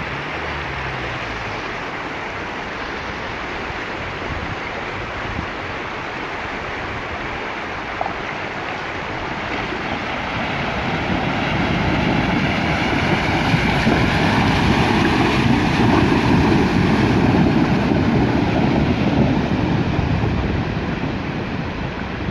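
A vehicle fording a mountain river: rushing water over the engine, swelling louder about halfway through and easing off near the end.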